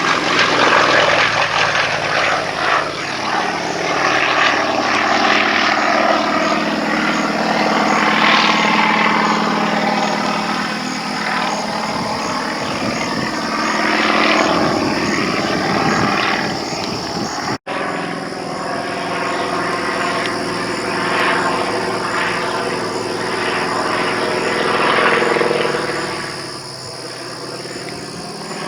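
Pitts Model 12 aerobatic biplane's propeller engine running through a display. Its pitch and loudness rise and fall repeatedly as the plane manoeuvres. The sound cuts out for an instant about two-thirds of the way through.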